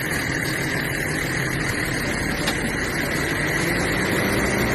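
Steady running noise of a vehicle on the road, engine and road noise without any sudden change, with one faint click about two and a half seconds in.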